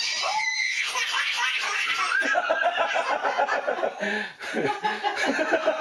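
Hearty laughter that breaks into a rapid run of laughs about two seconds in and keeps going.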